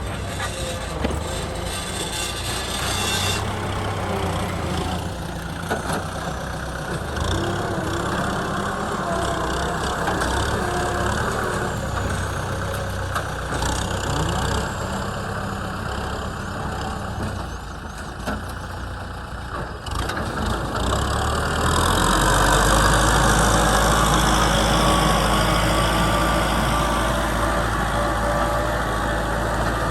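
Kubota M6040 SU tractor's diesel engine running, its sound shifting several times; about two-thirds of the way through it becomes louder and settles into a steady low hum.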